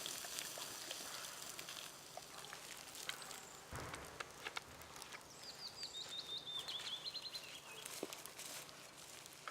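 Faint outdoor ambience. A small bird sings a quick run of about a dozen short, high, falling notes in the middle, with scattered faint clicks around it.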